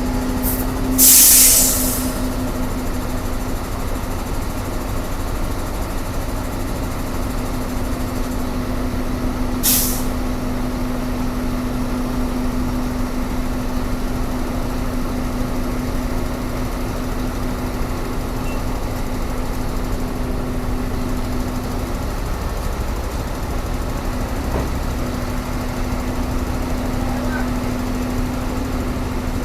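Heavy diesel engine running steadily, with two short hisses of released air, one about a second in and one near ten seconds.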